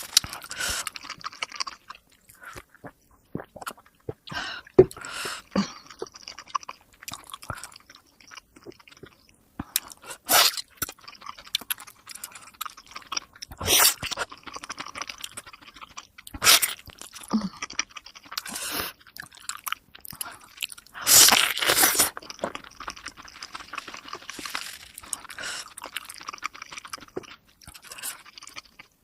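Close-miked eating of momo dumplings: wet chewing, bites and crunches, sped up to double speed. The sounds come in irregular bursts, the loudest about ten, fourteen, sixteen and twenty-one seconds in.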